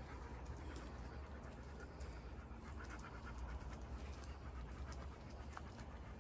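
Golden retriever panting faintly over a low steady rumble.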